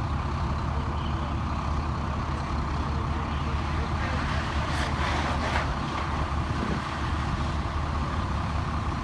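A large engine running steadily, a low drone, with a couple of short hissing noises about four to six seconds in.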